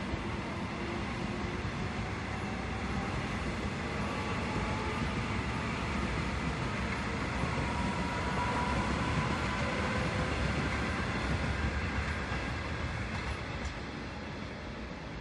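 Seoul Metro Line 1 rheostatic-control electric train running past on the rails, a steady rumble with a faint whine. It grows louder to about the middle, then fades as the train moves away.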